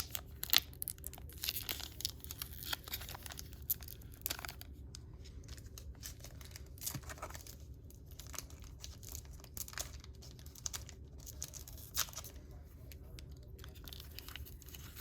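A trading card pack wrapper being crinkled and torn, in irregular rips and crackles that stop and start: the pack is hard to open.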